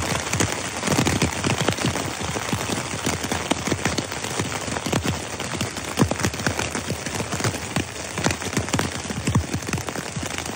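Heavy rain on a tent's flysheet, heard from inside the tent: a dense, steady patter with many louder single drops and big splashes hitting the fabric.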